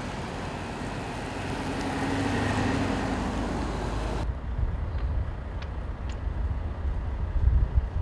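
A heavy vehicle passing with a rushing noise that swells and eases, cut off abruptly about four seconds in. Then comes a low, uneven rumble like wind buffeting the microphone, with a couple of faint clicks.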